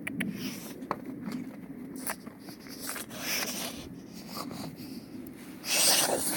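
Snow gloves rubbing and brushing against the camera's microphone: scratchy rustling and scattered clicks, with a louder rustle near the end.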